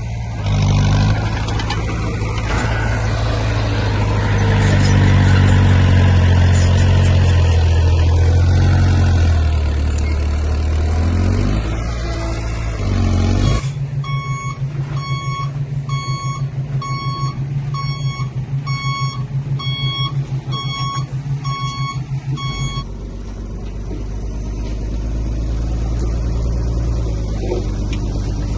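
Heavy diesel earthmoving machine running, its engine pitch rising and falling under load for about the first half. It then switches to reverse and its back-up alarm beeps steadily, a little faster than once a second, for about nine seconds over a pulsing engine. The engine then runs on steadily after the beeping stops.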